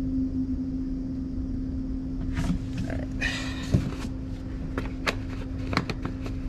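A steady mechanical hum with a low rumble, as of an engine or machine running nearby, under a few light knocks and clinks and a brief rustle of hands working at the oil fill and jug.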